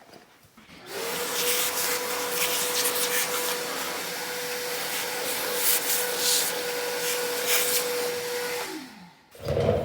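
A small electric motor spins up about a second in, runs at a steady pitch with a hiss for about eight seconds, then winds down and stops.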